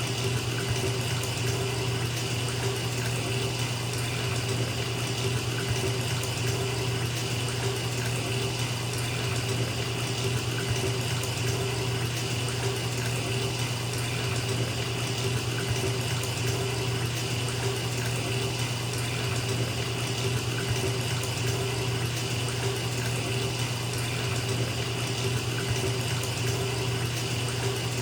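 Bathtub faucet running steadily, water pouring into a filling tub in an even, unbroken rush.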